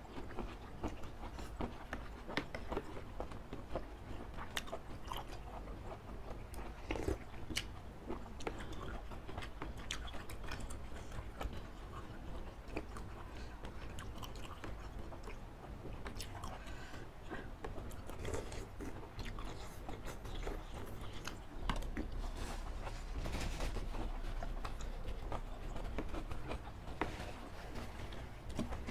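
Close-miked mukbang eating: chewing and slurping of spicy laksa noodle soup with octopus, with frequent short sharp clicks of spoons and wet mouth sounds.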